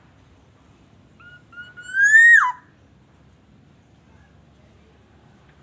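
Black-naped oriole (kepodang) giving one fluty whistled phrase: two short clipped notes, then a longer note that rises and drops off sharply, about a second in.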